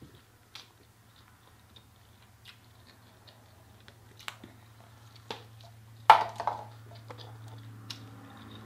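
Close eating sounds: chewing and biting on a sauced chicken wing, with small scattered clicks from plastic sauce cups being handled. About six seconds in comes one much louder sharp crack. A steady low hum runs underneath.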